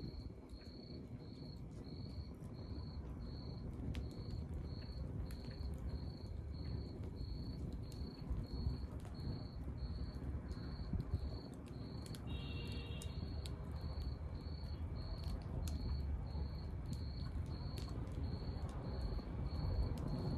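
A cricket chirping evenly about twice a second over the low rumble and scattered crackle of a burning wood fire, with a short higher call about twelve seconds in.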